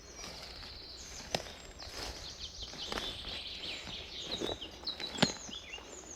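Songbirds singing in quick, high chirps and trills, with footsteps on a forest path. Two sharp cracks, about a second in and near the end, are the loudest sounds.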